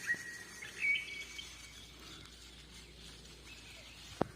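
Faint birdsong outdoors: a quick run of short chirps that ends just after the start, then a brief held note about a second in, with a single sharp click near the end.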